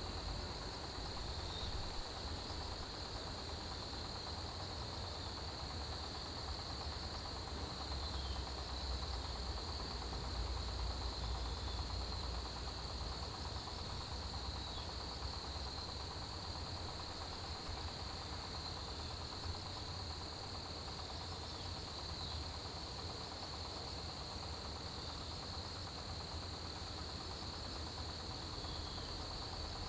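Autumn grass insects, crickets among them, chirring in a steady chorus, with a very high, evenly pulsing trill from another insect above it. A low rumble runs underneath.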